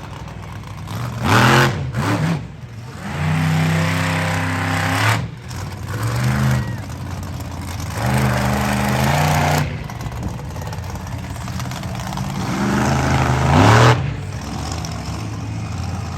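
Monster truck engine revving hard in repeated bursts. Several held full-throttle runs alternate with quick climbs in pitch, and the loudest rev comes near the end.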